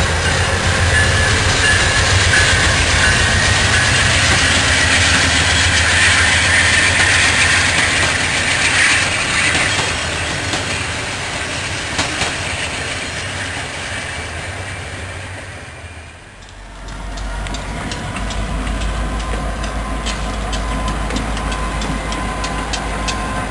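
A train running past on the rails with loud wheel-and-track noise that fades away about two-thirds of the way through. A deep, steady low rumble then starts up, with a faint thin whine above it.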